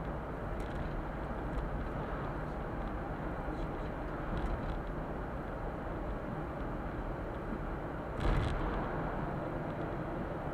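Suzuki Super Carry kei truck's 660 cc three-cylinder engine and tyre noise, heard from inside the cab while driving, steady with small rattles and a louder jolt over a bump about eight seconds in.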